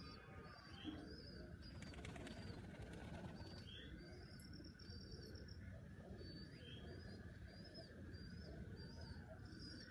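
Faint outdoor birdsong: a small bird chirping in short high notes, about two a second, over a steady high hum and low rumbling background noise.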